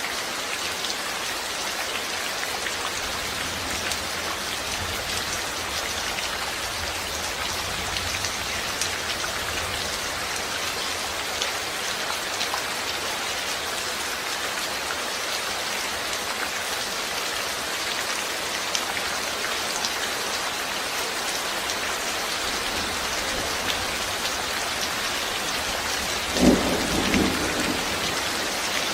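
Steady rain falling, with a faint low thunder rumble through the middle and a sudden thunderclap about two seconds before the end.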